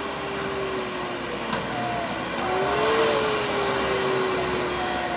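Heavy diesel truck engine labouring under load as one truck pushes another up a muddy incline. It is a steady drone whose pitch sags, rises about halfway through, then eases down again.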